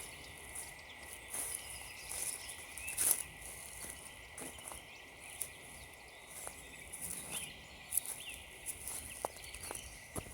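Footsteps crunching on frozen leaves and frosty ground at a walking pace, with small birds chirping faintly in the background.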